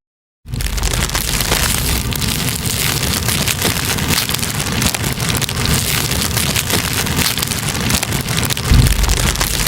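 Metal scouring sponge burning with dense, steady crackling and fizzing, a rain-like patter of tiny pops over a low rumble. It starts abruptly just after the beginning, following a brief cut to silence.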